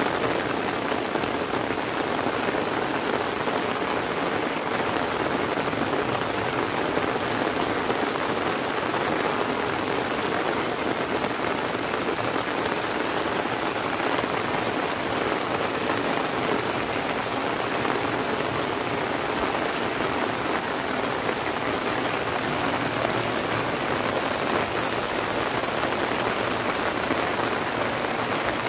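Heavy rain falling steadily and evenly.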